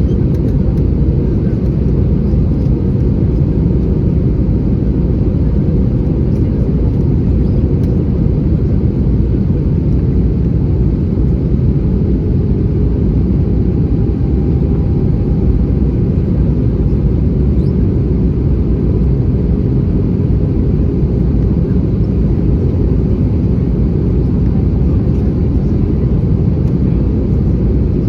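Steady, loud cabin rumble of an Airbus A320-214 in flight, as heard from a window seat. It is a mix of the CFM56 jet engines and the airflow over the fuselage, and it stays even throughout.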